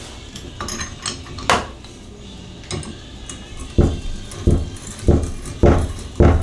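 Metal tools and shower valve parts clinking and knocking as they are handled during a Moen valve repair: light clicks with one sharp click, then a run of five heavier knocks about 0.6 s apart in the second half.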